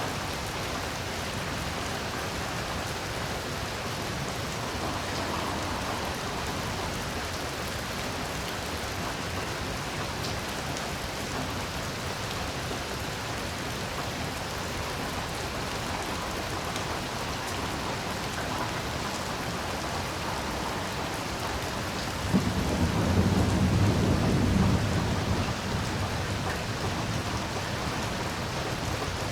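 Heavy rain falling steadily, with a roll of thunder breaking in suddenly near the end, loudest for about three seconds before fading back under the rain.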